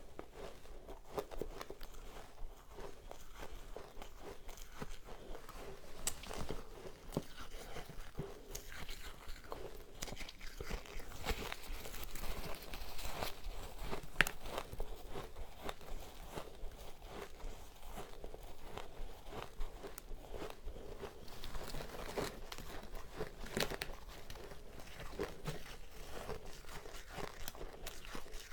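A person biting and chewing soft powdery ice: a dense, unbroken run of small crunches and crackles.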